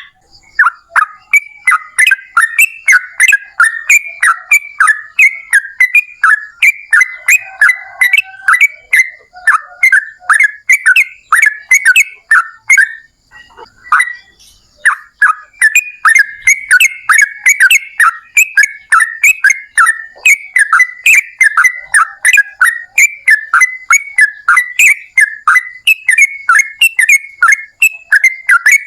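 Yellow-vented bulbul (trucukan) singing a long, rapid chattering run of short notes, about three a second. It breaks off for about two seconds midway and then carries on.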